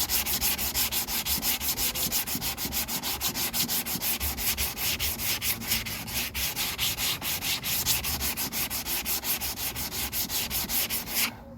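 Sandpaper rubbed back and forth by hand over hardened body filler on a car bumper, in fast even strokes of about five a second, stopping abruptly near the end.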